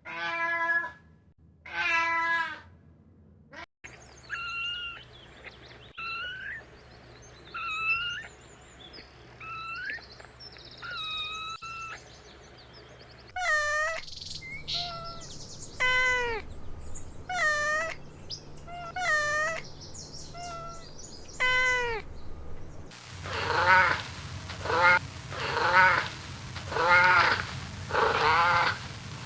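Kittens meowing over and over, in several separate recordings cut one after another. In the middle stretch the mews fall in pitch. The last few seconds hold the loudest meows, about one a second.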